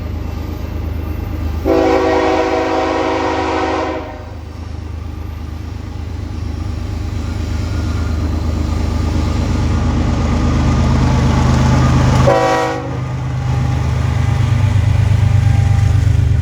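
Diesel freight locomotive approaching with its engine rumble growing louder. It sounds its multi-note air horn: one long blast of about two seconds near the start, then a short blast near the end.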